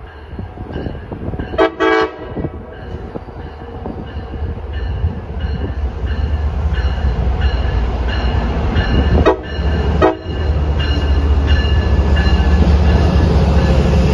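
Passenger train horn sounding a short blast, with the train's low rumble building steadily as it comes closer. Two more brief horn toots come about nine and ten seconds in, over a regular ringing tick about twice a second.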